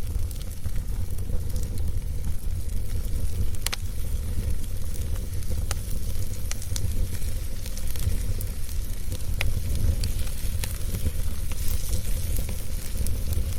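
Wood fire burning in a fireplace: a steady low rumble and hiss of the flames with scattered sharp crackles and pops from the burning wood.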